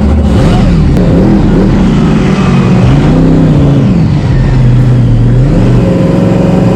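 Monster truck engine revving hard, its pitch rising and falling several times, then held steady at high revs near the end.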